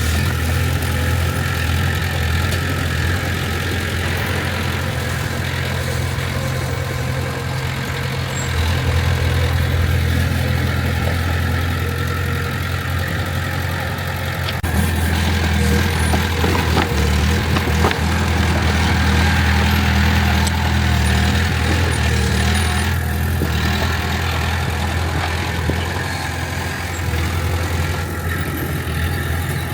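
Heavy diesel engine of a crawler bulldozer running continuously, working harder at times: the level rises about 8 and 15 seconds in and eases off again near the end.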